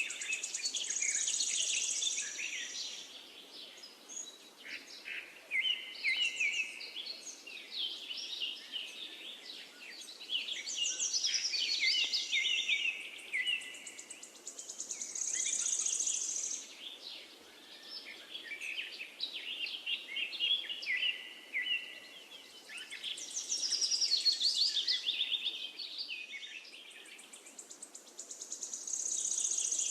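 Songbirds singing: fast high trills and chattering phrases that swell and fade every few seconds, over a faint steady hiss.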